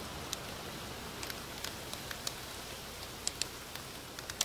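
Scattered raindrops ticking on a hard surface: about a dozen sharp taps at uneven intervals over a steady hiss of light rain.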